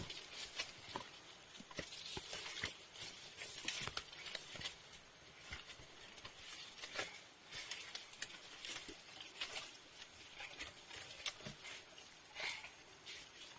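Irregular rustling and crackling with many small clicks, uneven in pace and loudness.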